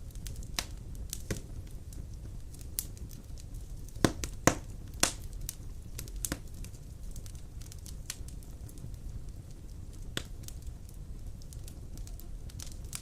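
Wood fire burning in a stone fireplace: a low steady rumble with irregular sharp crackles and pops, the loudest a few pops close together about four seconds in.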